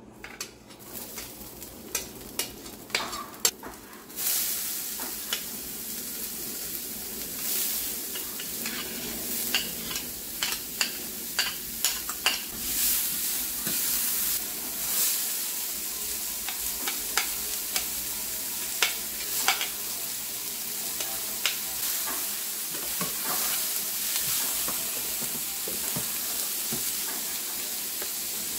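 Chopped pork and aromatics for sisig frying in a hot pan, sizzling steadily, while a utensil stirs and scrapes, clicking against the pan over and over. The sizzle grows much louder about four seconds in.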